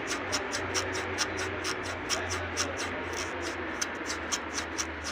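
Car suspension squeaking in quick, fairly even repeats, a few squeaks a second, over a steady low hum: a squeak of the kind that can come from a damaged silentblock (rubber suspension bushing).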